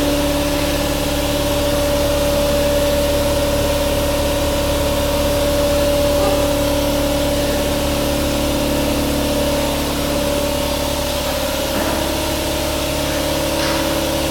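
Harley-Davidson V-Rod's liquid-cooled Revolution V-twin engine idling steadily.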